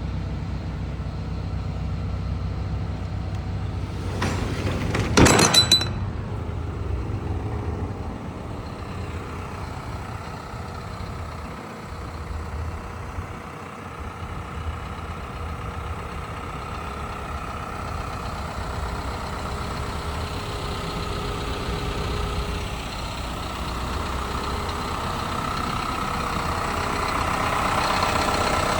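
Isuzu box truck's engine running steadily, with a brief loud burst of noise about five seconds in; the engine sound grows louder near the end.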